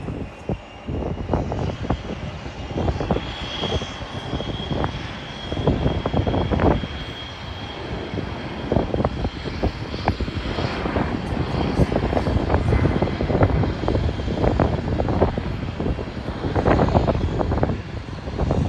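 Jet airliner engines running as a plane passes, with a thin high whine a few seconds in. Gusty wind buffets the microphone throughout.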